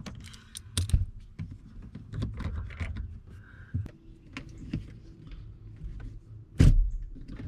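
Irregular clicks and taps of a tool working a 10 mm bolt loose behind a car's interior trim panel, with one loud knock about six and a half seconds in.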